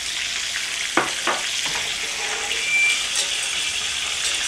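Steady sizzle of a battered steak frying in hot oil, while a wire whisk stirs flour into melted butter in a stainless steel saucepan to make a thin roux. There are two sharp taps about a second in.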